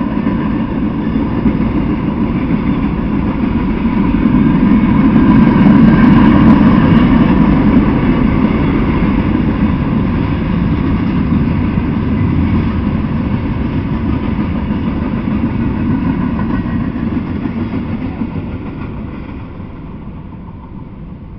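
Freight train tank cars and covered hopper cars rolling past on the rails: a steady noise that swells a few seconds in, then dies away near the end as the last cars clear.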